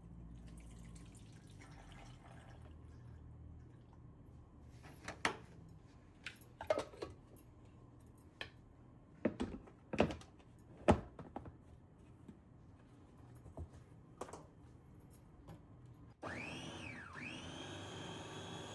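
Kitchen handling sounds: a string of sharp knocks and clicks from dishes and utensils being set down and moved. Near the end a steady whirring hum starts, its pitch dipping and then rising before it settles.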